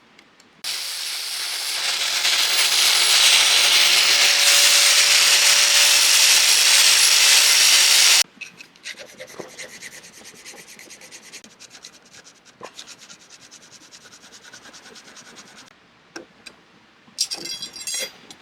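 Power sanding tool running against a wooden handle blank to round it: a steady motor whine under a loud gritty sanding rasp that starts suddenly about half a second in and cuts off after about eight seconds. After it come quieter scraping strokes on the wood, and a short run of light clicks near the end.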